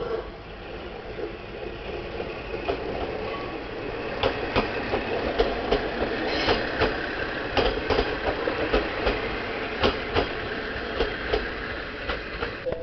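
JR KiHa 40 diesel railcar passing close by. A rumble builds over the first few seconds, then a run of sharp wheel clacks over the rail joints comes from about four seconds in, dropping away as the last car clears near the end.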